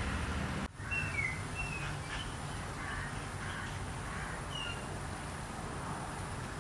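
Outdoor ambience: a steady low rumble with a few short, quick bird chirps over it. The background cuts out for an instant just under a second in.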